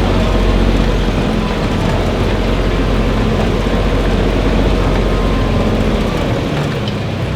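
Vehicle engine running steadily while moving, a deep rumble with road and wind noise, easing off slightly near the end.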